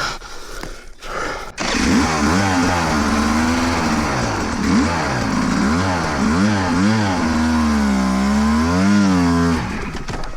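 Enduro dirt bike engine revving hard, its pitch rising and falling again and again as the throttle is worked, typical of a rider fighting up a steep climb. It starts abruptly after a quieter first second and a half, and cuts off suddenly about a second before the end.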